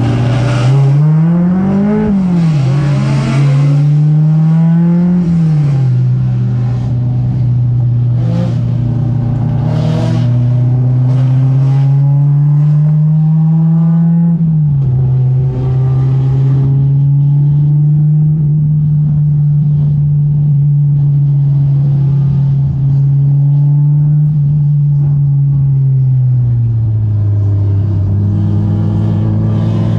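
Honda S2000's four-cylinder engine running hard on a race track, its pitch climbing and dropping a few times with throttle and gear changes and otherwise holding steady for long stretches.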